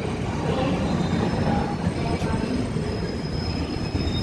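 Passenger express train running at speed, heard by a passenger aboard: a steady rumble of wheels on the track, with a faint high wheel squeal coming in about halfway.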